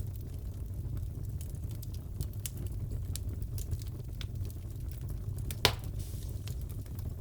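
Crackling fireplace: a steady low rumble of the burning fire with scattered sharp crackles, and one loud pop about five and a half seconds in.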